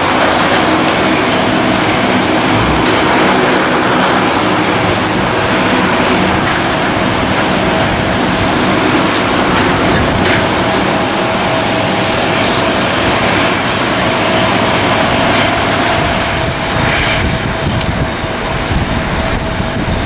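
Jet aircraft engines running: a loud, steady rush of noise with several steady whining tones in it.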